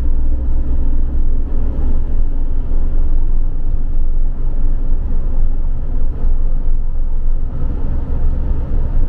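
Steady low rumble of a campervan's engine and road noise, heard from inside the cab while driving.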